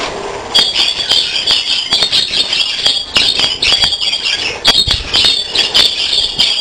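A flock of budgerigars chirping and chattering without a break from about half a second in, mixed with many sharp clicks.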